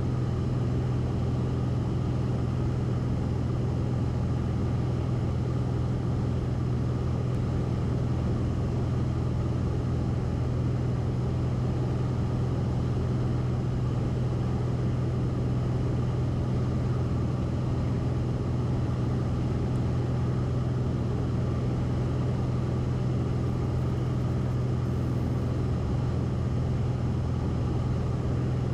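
Cessna 172RG's engine and propeller droning steadily in flight, heard from inside the cockpit: a constant low hum with rushing noise over it and no change in pitch.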